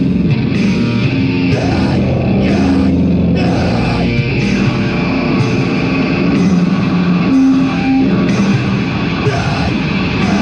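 A heavy metal band playing live, loud and dense, with a steady beat.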